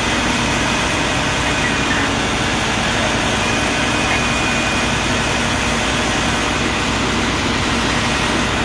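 A vehicle engine idling steadily close by: a constant, unchanging drone.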